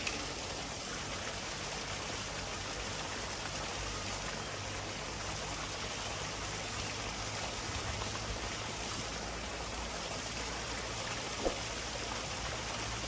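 Steady rush of running water, with a single faint tick near the end.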